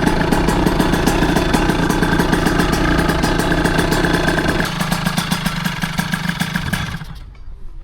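Derbi Senda's two-stroke engine, bored out to 88cc, running steadily at constant revs with no revving, then dying away about seven seconds in.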